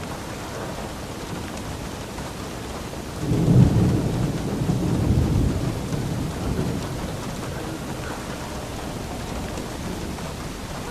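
Steady rain, with a roll of thunder that breaks about three seconds in, rumbles low for a few seconds and fades back into the rain.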